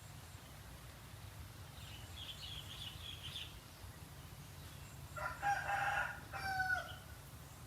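A rooster crowing once, in two parts, about five seconds in, after a spell of high, thin bird chirping. A low steady hum lies under it all.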